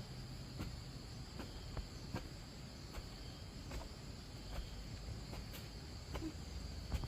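Steady high-pitched chirring of an insect chorus, with faint taps scattered through it.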